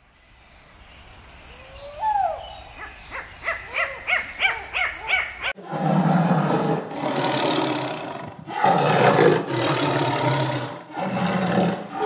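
A ring-tailed lemur calling: one rising wail, then a quick run of short yelping calls, about three a second. Then a tiger roaring in about five long, rough roars, each around a second long.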